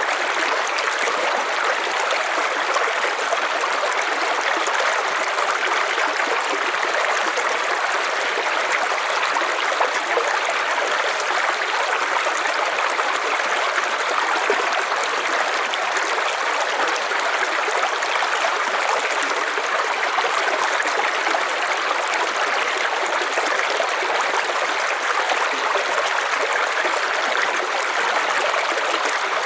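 River water flowing over rocks: a steady, even rush of running water with no changes.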